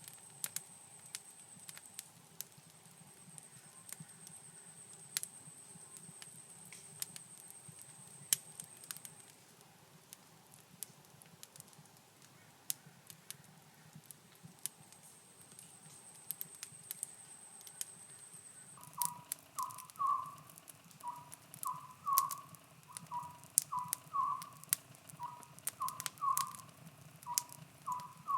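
A wood fire crackling, with sparse sharp pops, and a thin high steady tone over it for the first half. About two-thirds of the way in, a short chirping call starts and repeats roughly twice a second to the end, sounding like a bird.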